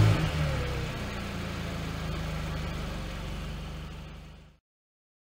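A car engine revving with a falling pitch, then running steadily, fading and cutting off abruptly near the end.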